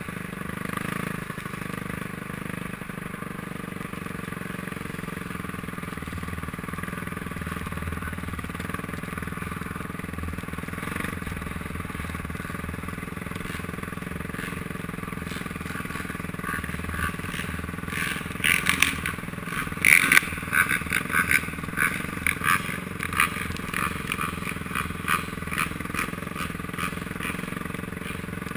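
Honda CRF250R's single-cylinder four-stroke motocross engine running steadily, heard through a helmet camera. From about two-thirds of the way in, a run of sharp knocks and clatter comes over it.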